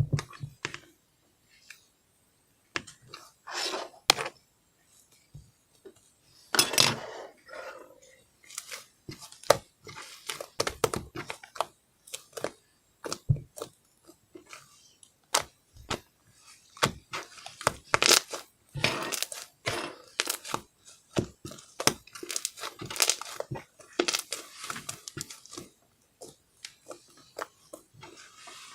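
Thin crinkly sheet material being handled at close range: irregular crinkling and tearing, with short sharp clicks and taps between quieter gaps.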